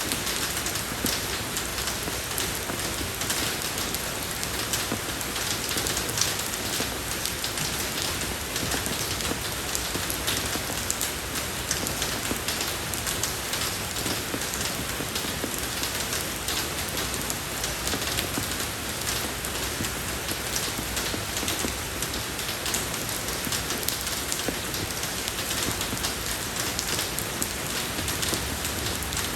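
Steady rain falling on a road, an even hiss of many fine drop ticks.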